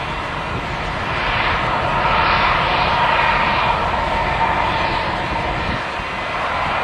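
Boeing 737-800's CFM56-7B jet engines running: a loud, steady rush with a hum near 1 kHz, swelling a little about two seconds in and easing back near six seconds.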